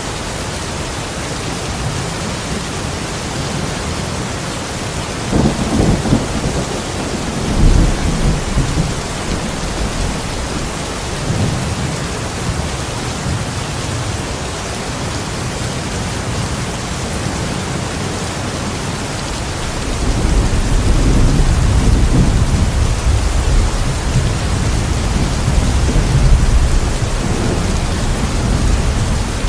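Steady rain with rolling thunder: a rumble starts about five seconds in and swells twice, and a longer, heavier rumble begins about two-thirds of the way through.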